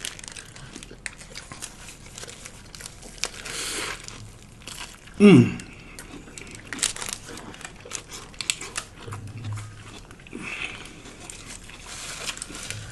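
Close-up eating sounds: paper wrapper crinkling around a lettuce-wrapped Italian sub, with bites and chewing making small crunches and clicks. About five seconds in, a short, loud vocal sound drops in pitch.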